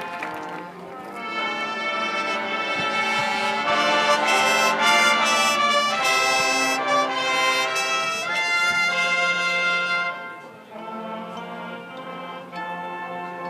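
Marching band brass section playing sustained chords. It swells loud about a second in and drops to a softer passage near the end.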